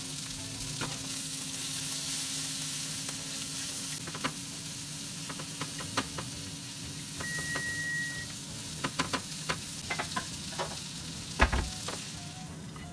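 Shredded cabbage and bean sprouts with pork sizzling in a frying pan, with a wooden utensil clicking and scraping against the pan as the vegetables are stirred and tossed. A short steady beep sounds about seven seconds in.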